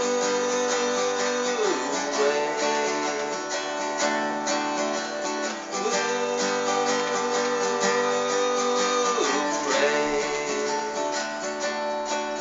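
Acoustic guitar strummed steadily in an instrumental break between verses of a folk song. A held melody line runs over it and dips in pitch twice.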